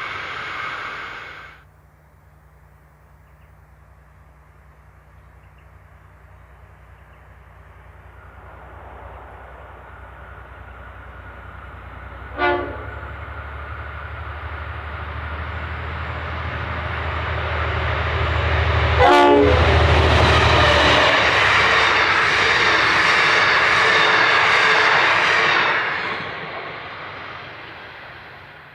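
Diesel-electric locomotive approaching, its low engine drone building slowly, then two short blasts on its horn several seconds apart before the train passes loudly and fades away. A different shot's sound cuts off about a second and a half in.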